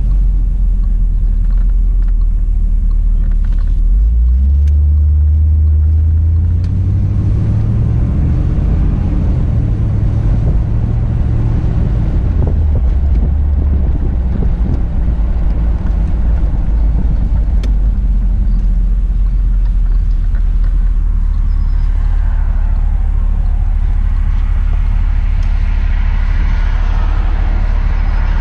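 1978 Corvette pace car's 350 V8 engine running on the move, heard from inside the cabin as a deep rumble. It pulls harder about four seconds in, its pitch stepping up and down over the following several seconds, then settles to a steady cruise, with road and wind noise building near the end.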